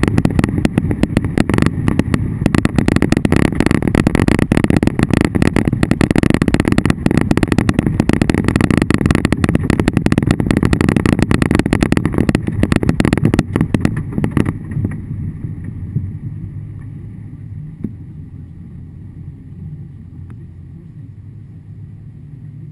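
Hail pelting a vehicle's roof and windshield, heard from inside the cabin as a dense, loud rattle of impacts over a low engine and road rumble. About two-thirds of the way through, the hail noise cuts off suddenly, leaving only the quieter vehicle rumble.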